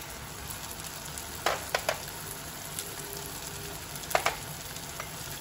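Onions, tomatoes and green chilli sizzling gently in oil in a nonstick wok. A few light clicks of utensils against the pan come about one and a half to two seconds in and again after four seconds, as tomato sauce is spooned in.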